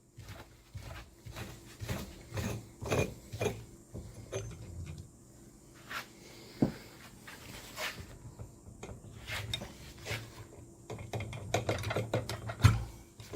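Irregular clinks, clicks and knocks of metal tools and motorcycle shock absorber parts being handled on a workbench during shock disassembly. One sharper knock comes about halfway through and a louder one near the end.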